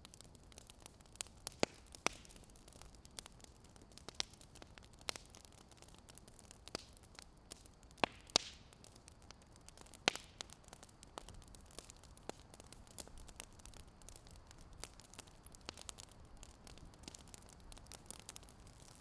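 Wood fire crackling: irregular sharp pops and snaps over a faint steady hiss, with a cluster of louder pops about eight to ten seconds in.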